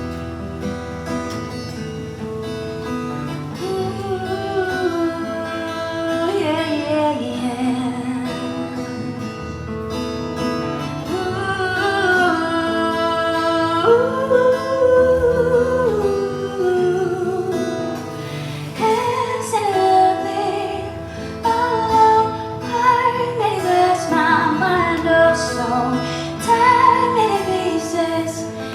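Live music: an acoustic guitar playing, with a woman singing over it from a few seconds in.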